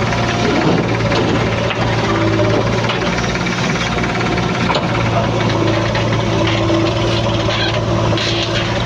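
Diesel engine of heavy earthmoving machinery running steadily under load, with a constant low hum.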